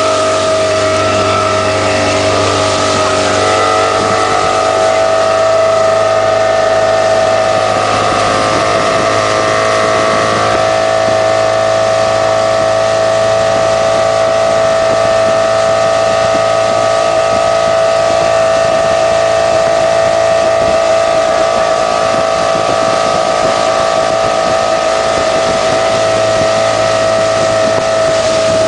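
Motorboat engine running steadily under way, with rushing water and wind noise. The engine's pitch shifts a little in the first several seconds, then holds steady.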